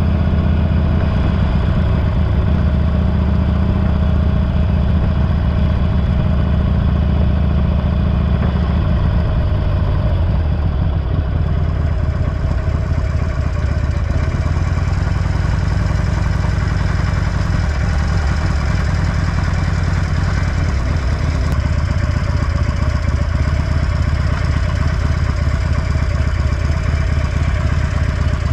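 Harley-Davidson Forty-Eight's V-twin idling steadily through an aftermarket Belles Performance muffler, a deep, even exhaust note.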